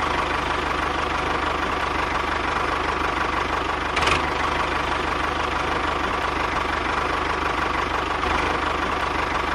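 Engine idling steadily with a fast, even knock, with one brief click about four seconds in.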